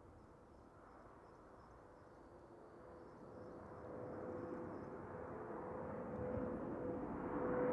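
Bombardier CRJ-1000 regional jet's twin turbofan engines, a rising rush with a steady whine coming in about three seconds in, growing louder as the aircraft approaches.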